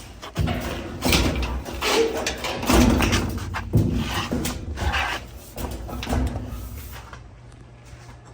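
Irregular knocks, clunks and scrapes of a Kenmore washer's sheet-metal top and cabinet being handled and set back in place, dying down about seven seconds in.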